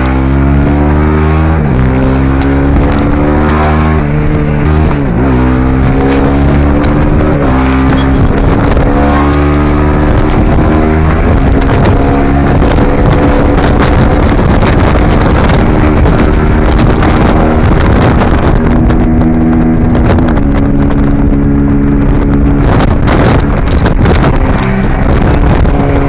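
Suzuki V-Strom SX 250's single-cylinder engine and exhaust under way. The pitch climbs as it revs, then drops sharply at each gear change, several times. In the middle it holds a steadier pitch for several seconds.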